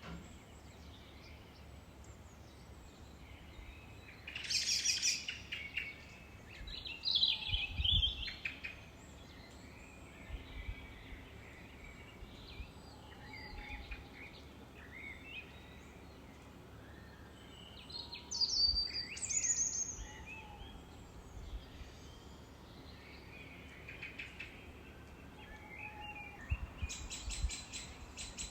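Several wild birds chirping and singing in overlapping calls, with louder bursts of quick chirps about four seconds in, around seven seconds, midway, and near the end, over a faint steady outdoor hiss and a low rumble.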